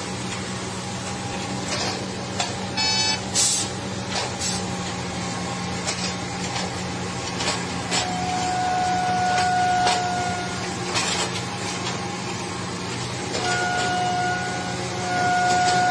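Heavy road-construction machinery with its engine running steadily, and scattered clanks and knocks over it. A steady whine comes in about halfway through, drops out, and returns near the end.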